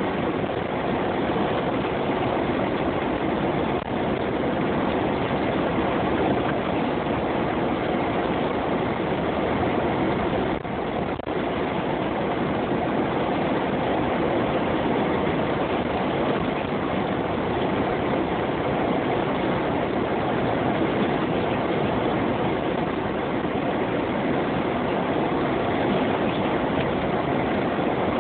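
Jeep being driven through snow: a steady drone of engine and road noise, dipping briefly about eleven seconds in.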